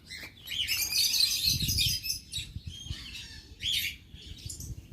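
A flock of small aviary birds chirping and twittering together, busiest in the first couple of seconds, then scattered single calls.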